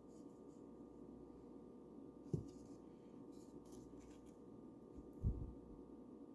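Faint strokes of a paintbrush brushing paint onto a wooden bird house, over a steady low hum. Two dull thumps stand out, one about two and a half seconds in and one about five seconds in.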